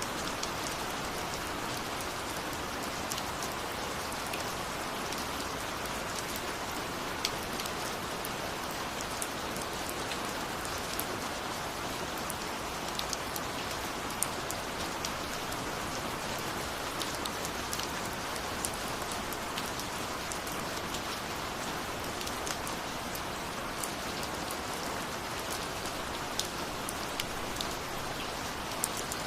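Steady rain falling on a surface, an even hiss of rainfall with scattered sharp drop ticks.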